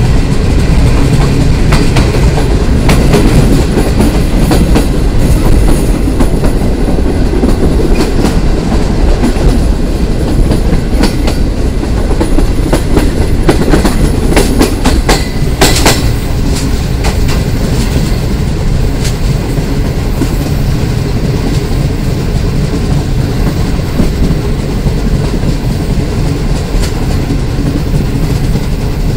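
Passenger train in motion, heard from the side of a coach: a loud, steady rumble with the clickety-clack of the wheels over rail joints, and a quick cluster of sharper clacks about halfway through.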